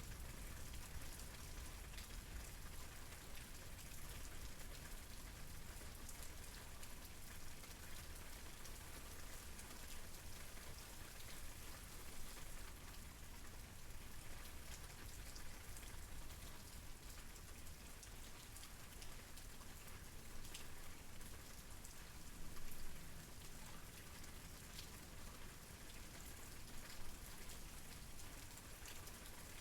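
Steady rain falling, an even hiss with scattered drops tapping and a low rumble underneath; a few drops land a little louder, around the middle and near the end.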